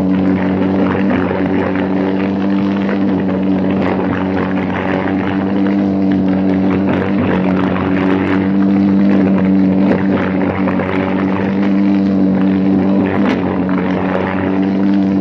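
Briggs & Stratton Animal single-cylinder kart engine, run without a restrictor, running hard at high revs during a race, its pitch holding nearly steady with small dips and rises.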